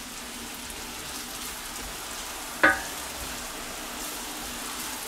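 Sliced button mushrooms sizzling in clarified butter in a cast-iron skillet, a steady frying hiss as they are stirred with a wooden spatula. One brief louder sound cuts in about two and a half seconds in.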